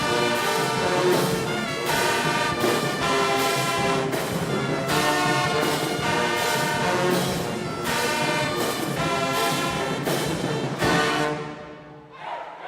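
Marching band brass section playing loud sustained chords in blocks about a second long. The brass fades out near the end.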